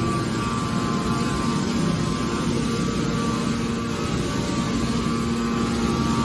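Hydraulic scrap car baler running: a steady machine drone with a constant hum, no distinct impacts.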